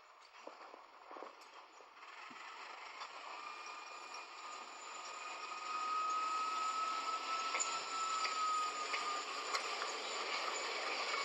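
A train approaching on the track, its rumble building over the first several seconds and then holding loud, with a thin high whine from its wheels or running gear that rises slightly and then fades near the end.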